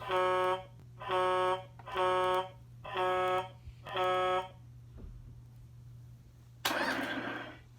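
Electronic beeping from a Matchbox Rocky the Robot Truck toy's sound chip: five evenly spaced, buzzy beeps about a second apart. Near the end there is a short hissing rush lasting about a second.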